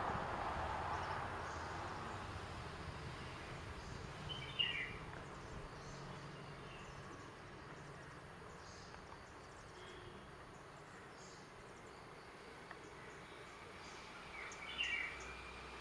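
A small bird chirping in short calls, once about five seconds in, faintly around ten seconds, and again near the end, over steady outdoor background noise.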